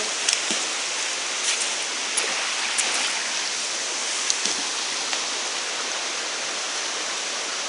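Waterfall and stream water rushing steadily, with a few faint clicks over it.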